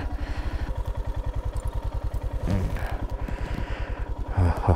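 Royal Enfield Himalayan's single-cylinder engine running at low, steady revs, with an even exhaust beat of about a dozen pulses a second.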